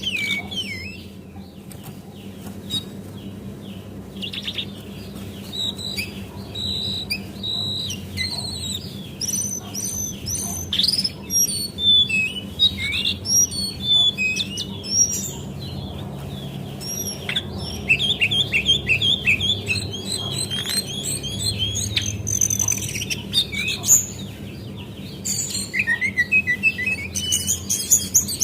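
Brown cingcoang (jongkangan), a female, calling and singing: quick high chirps, sweeping whistles and rattling trills, one after another, over a faint steady low hum.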